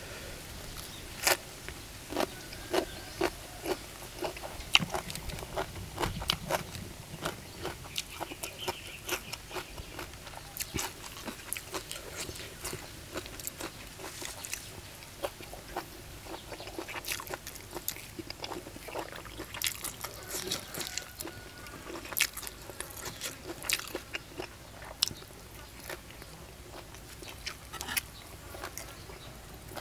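Close-miked eating: a person biting and chewing crunchy food, papaya salad with wild olive and boiled beef offal, with frequent short crunches and clicks.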